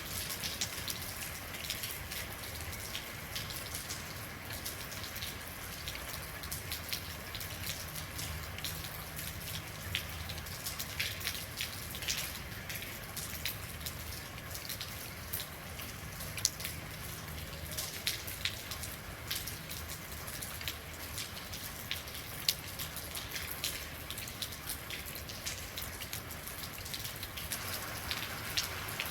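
Steady rain falling, with many separate drops tapping sharply on a hard surface over an even hiss.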